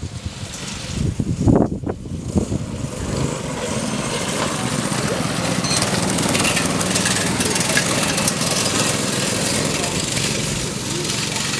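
Small single-cylinder 6.5 hp mini bike engines running, settling into a steady, lawn-mower-like drone from about three seconds in. A thump comes about two seconds in.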